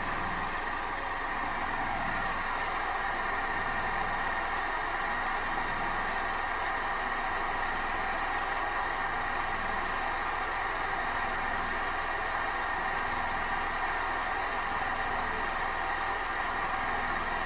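Experimental 14cc pressurised, water-cooled, twin-cylinder gamma Stirling engine running at a steady speed with an even mechanical whirr.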